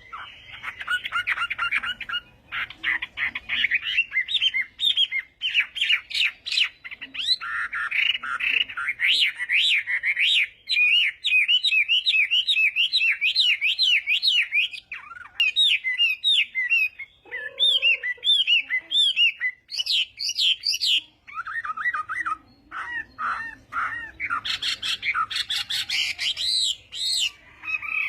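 Chinese hwamei (Garrulax canorus) singing a long, varied song of rapid repeated whistled notes, phrase after phrase with short breaks.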